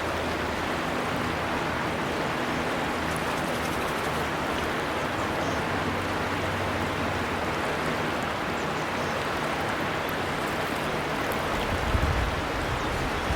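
River water flowing over rocks, a steady rushing. A brief low rumble about twelve seconds in.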